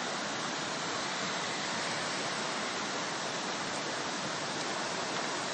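Steady rushing of fast-flowing floodwater: an even, unbroken hiss with no separate events.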